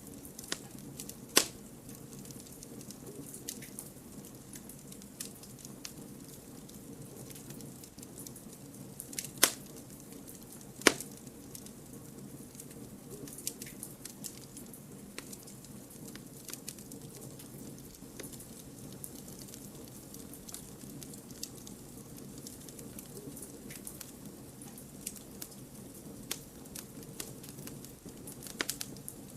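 Wood campfire burning with a steady low rush and continual small crackles. Three sharp, louder pops stand out: one about a second in, then two close together near the middle.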